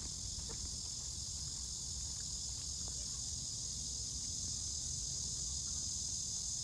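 A steady, high-pitched insect chorus over a low outdoor rumble, with a few faint ticks.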